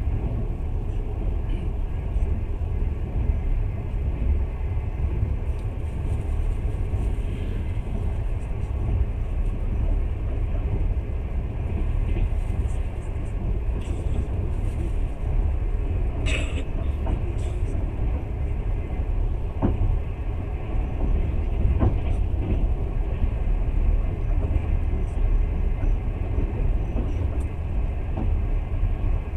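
Passenger train running at speed, a steady low rumble of wheels on rails heard from inside the carriage, with a few short clicks near the middle.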